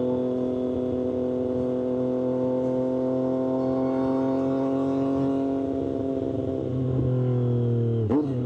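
Triumph Street Triple 765 RS inline three-cylinder engine running through an SC-Project exhaust, heard while riding, its note sinking slowly. About eight seconds in the note breaks sharply and settles lower, as with a gear change.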